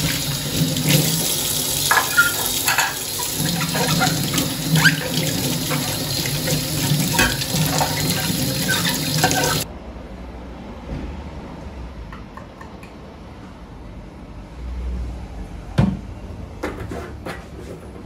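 Water running from a tap into a kitchen sink, with occasional light clinks, shut off abruptly a little over halfway through. A few light knocks and clicks follow near the end.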